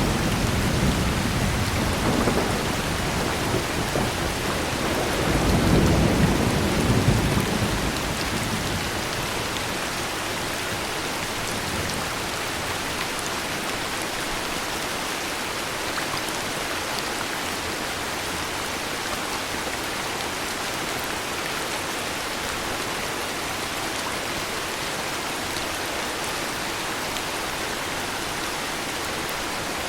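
Heavy rain falling steadily, with a roll of thunder that rumbles through the first few seconds, swells about six seconds in and dies away by about eight seconds, leaving the even hiss of rain.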